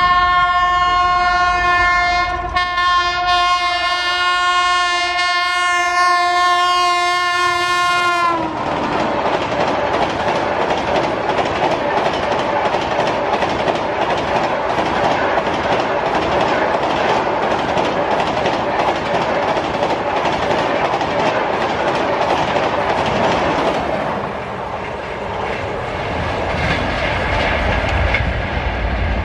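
Express train's horn sounding one long steady chord for about eight seconds, its pitch dipping slightly just as it cuts off. Then the loud rush of the coaches passing at about 130 km/h, with rapid clickety-clack of wheels over the rail joints, easing off a little near the end.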